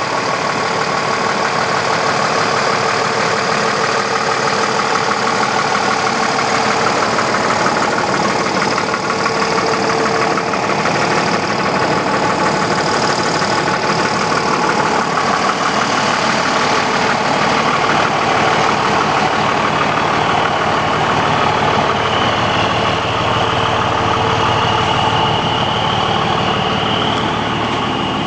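Fire engine idling steadily at close range. A thin high whine comes in over the engine for the last few seconds.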